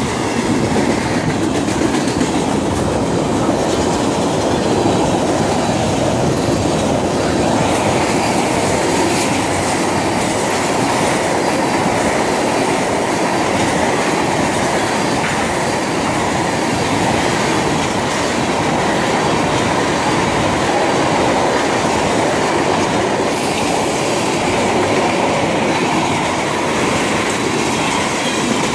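Freight train of tank cars rolling past at close range: a steady rumble and clatter of steel wheels on the rails.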